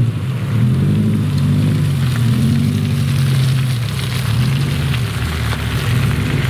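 Car engines running under load, the revs rising and falling, with tyres churning through deep mud as a Subaru Impreza wagon is pulled along on a tow strap.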